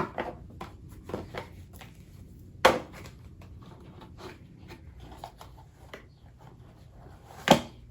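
Tarot cards and card decks being handled on a table: scattered small taps and rubs, with two sharper knocks, one about two and a half seconds in and one near the end.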